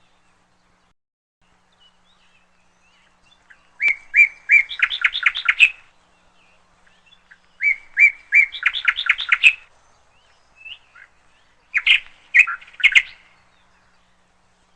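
A songbird singing three phrases a few seconds apart. The first two each open with a couple of clear notes and run into a quick string of notes; the last is shorter.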